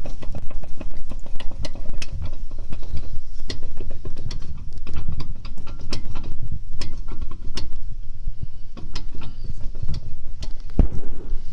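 Wheel hub bearing on a Kia Sorento knocking, a rapid, irregular run of clicks and knocks over a steady low rumble, the sign of a failing hub bearing.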